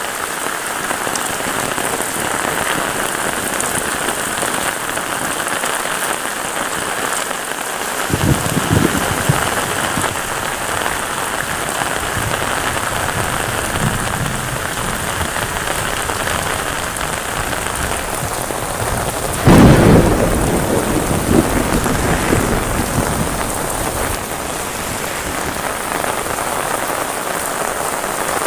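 Heavy rain falling steadily. Thunder rumbles low about 8 seconds in, then a loud thunderclap about two-thirds of the way through rolls away over several seconds.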